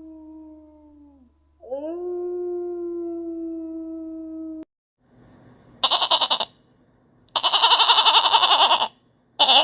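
A canine howling in long, steady, pitched notes: one fades out, then another holds for about three seconds and cuts off suddenly. After a short gap, loud quavering bleats follow in three bursts, typical of a goat.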